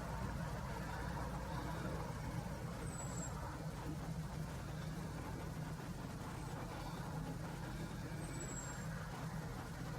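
Steady low rumble of distant road traffic, with two brief, thin, high calls from a hawfinch, one about three seconds in and one near the end, each dropping slightly in pitch.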